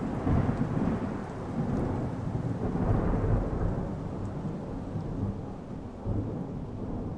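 Rolling thunder from a lightning strike: a low rumble that swells just after the start and again around three seconds in, then slowly dies away.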